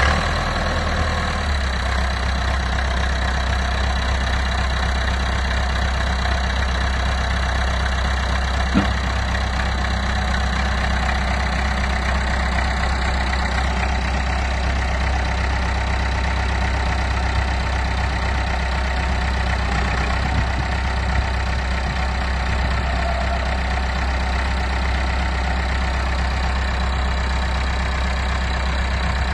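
A 1978 Massey Ferguson 575 tractor's four-cylinder Perkins diesel engine idling steadily. A single brief click sounds about nine seconds in.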